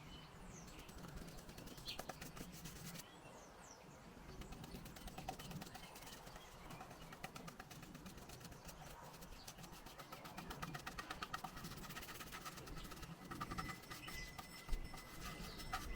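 Faint outdoor ambience: small birds chirping now and then over a dense, fine patter of ticks.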